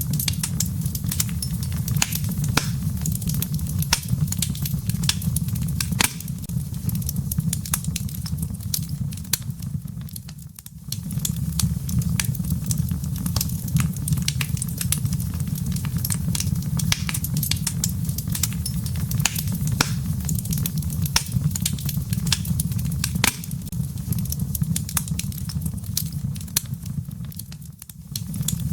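Wood fire burning in a fireplace: a steady low rumble of flames with many sharp crackles and pops of burning wood and embers. The sound briefly drops away twice, about ten seconds in and near the end.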